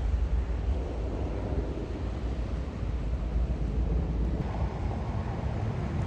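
Wind buffeting the microphone outdoors: a steady low rumbling noise that grows a little fuller about four and a half seconds in.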